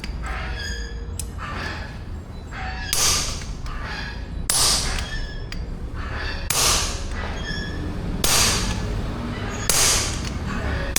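Metal hammer blows on an anvil forging steel: five heavy strikes about every one and a half to two seconds, each with a short metallic ring, and lighter taps between them. A steady low hum runs underneath.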